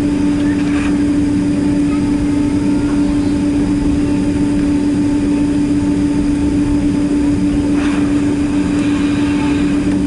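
Boeing 767-300ER jet engines heard from inside the passenger cabin: a steady, loud drone with a strong low hum under a wash of rushing noise.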